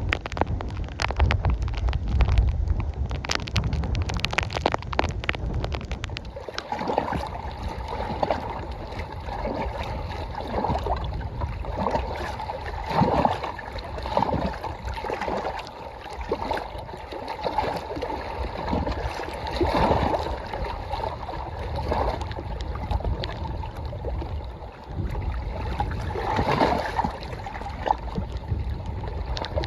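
Strong wind buffeting the microphone with many sharp ticks for the first few seconds. From about six seconds in, small wind-driven waves lap and splash irregularly against the lake shore.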